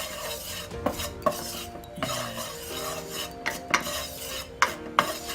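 A cooking utensil stirring and scraping spices around a frying pan, with irregular knocks against the pan.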